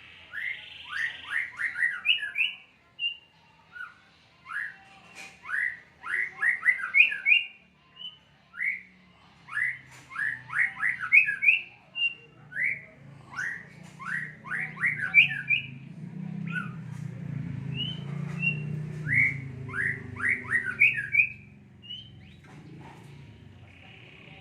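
A songbird singing: phrases of quick whistled notes, each sliding downward in pitch, repeated in clusters with short pauses, stopping a few seconds before the end. A low rumble runs underneath during the later part of the song.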